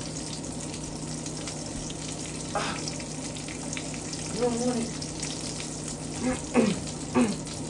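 Breakfast frying in a pan: a steady crackling sizzle. A few short voiced sounds from a person break in over it, louder than the sizzle.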